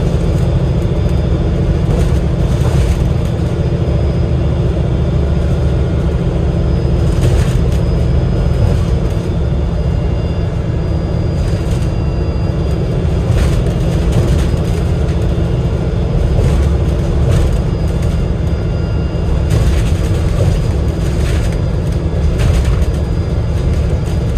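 Alexander Dennis Enviro500 MMC double-decker bus on the move, heard from inside: its Cummins L9 diesel engine and Voith DIWA automatic gearbox give a steady low rumble, with occasional brief clicks and rattles.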